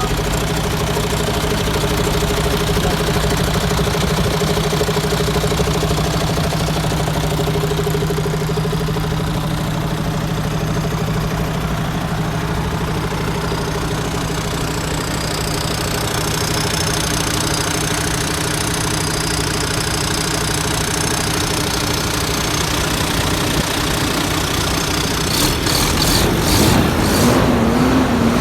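MAN TGA truck's diesel engine idling steadily, with a few brief clicks near the end.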